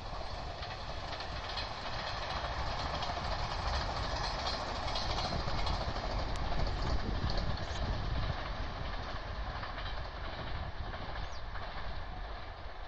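A 381 series limited-express electric train running past, heard across open fields: a steady rush of wheels on rail with some clatter. It swells to its loudest about halfway through and eases off toward the end.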